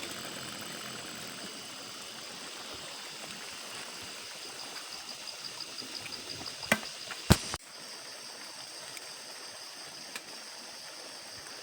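Water of a small jungle stream trickling and bubbling steadily where gas leaks up through it. About seven seconds in, two sharp knocks stand out as the loudest sounds.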